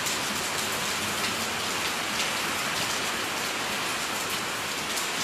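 Heavy rain falling in a steady, dense hiss, splashing onto wet brick paving.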